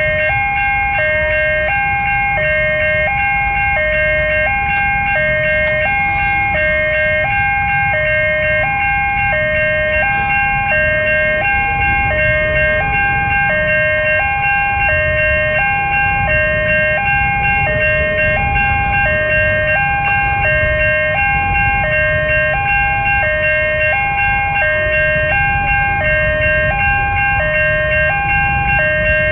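Electronic level-crossing warning alarm sounding continuously, switching back and forth between a lower and a higher tone about every 0.7 seconds, with a low rumble underneath.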